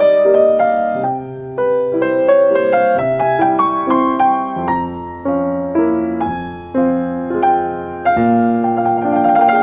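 Gentle background piano music, a slow melody over low bass notes, each note struck and then fading.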